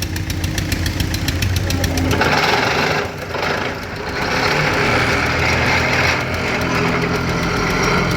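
Vehicle engine running hard as the driver floors the throttle: it rises to a fuller, louder note about two seconds in, eases briefly twice, then holds steady under load.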